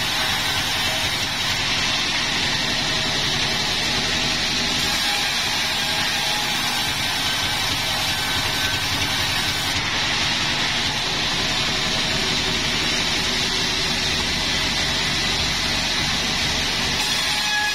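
Sawmill machinery running steadily: an even engine-like drone with a constant hiss on top, without a break or a clear change in pitch.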